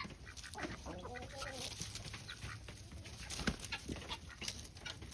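Backyard chickens clucking, with many short, overlapping calls from the flock.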